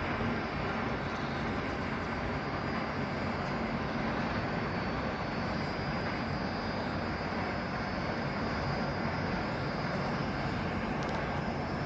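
Steady vehicle noise: an even rushing sound with a faint high whine.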